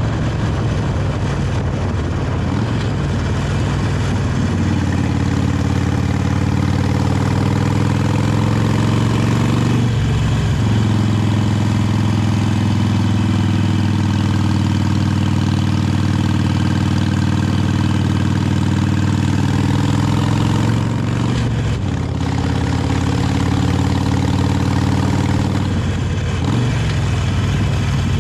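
Harley-Davidson 883 Iron's air-cooled V-twin running under way on its original exhaust, with a steady low note that rises gently for the first ten seconds. The note briefly breaks twice, about ten seconds and about twenty-two seconds in.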